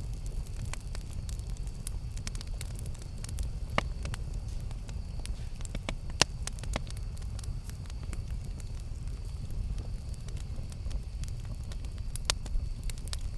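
Wood fire burning with a steady low rumble and scattered sharp crackles and pops, the loudest about four, six and twelve seconds in.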